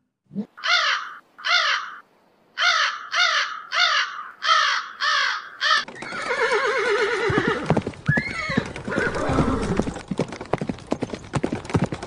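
A series of about eight short, arching animal calls, then a horse whinnying with a shaky, falling neigh, followed by rapid hoofbeats as it canters on sand.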